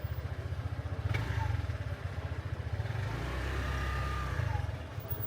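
Street traffic: a motorbike engine running with a low, pulsing rumble that grows louder about three seconds in, then fades.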